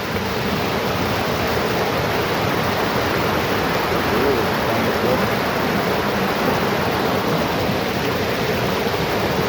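Mountain river rushing steadily over rocks: an even, loud roar of water with no breaks.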